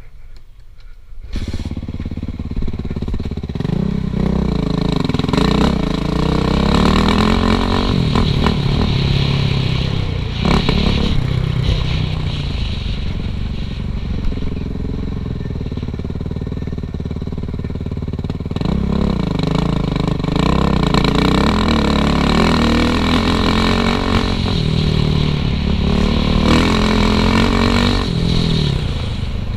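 Suzuki RM-Z450 dirt bike's single-cylinder four-stroke engine being ridden hard on a trail, its pitch rising and falling again and again with the throttle and gear changes. It comes in loud about a second in after a quieter start.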